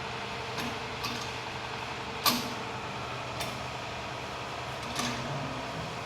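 A steady mechanical hum with a handful of sharp metallic clicks through it, the loudest a little over two seconds in, from a diesel injector being tested on a tractor.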